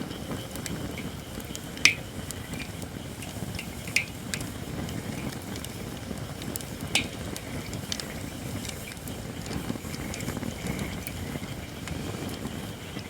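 Campfire of Japanese white oak logs burning with a steady low rumble and scattered crackles, three sharp pops standing out about 2, 4 and 7 seconds in. The oak is not yet fully dried.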